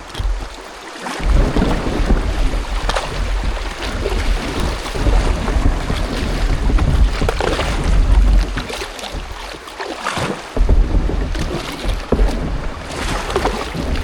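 Wind rumbling on the microphone, dropping out briefly twice, over splashing water and paddle strokes as a kayak is paddled.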